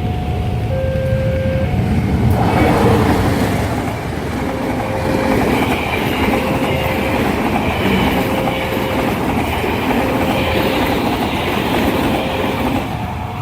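A train passing over a level crossing, its wheels clattering over the rails, growing loud about two seconds in. Under it the crossing's electronic warning alarm keeps sounding a short repeated tone about every two seconds.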